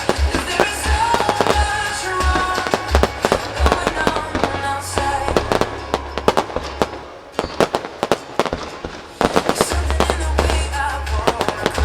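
Aerial fireworks bursting and crackling in quick succession over a music soundtrack with a steady bass beat. The music thins out briefly past the middle, then comes back under a dense run of bangs near the end.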